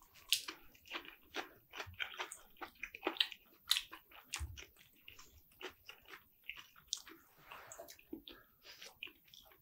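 A person chewing a mouthful of sliced turkey meat up close, with irregular short mouth clicks several times a second.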